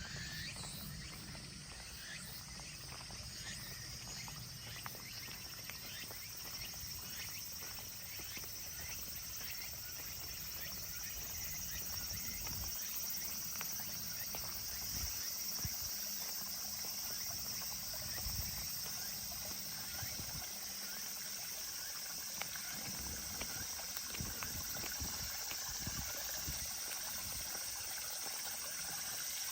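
A small stream of water trickling and splashing steadily, with many tiny drips and plinks over an even high hiss, and an uneven low rumble underneath.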